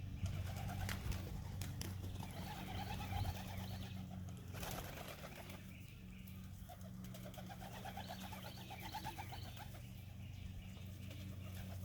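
Domestic pigeons cooing in repeated spells around the loft, over a steady low hum, with a few brief clicks.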